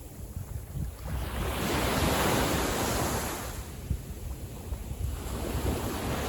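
Small waves of a calm sea washing in: one wash swells about a second in and fades away, and another builds near the end. Wind buffets the microphone with a low rumble underneath.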